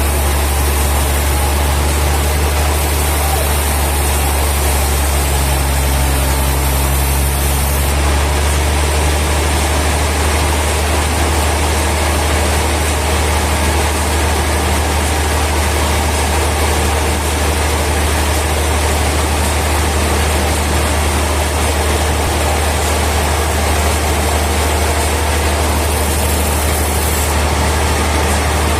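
Heavy sawmill machinery running steadily, a deep, even engine-like hum with a constant noisy wash over it.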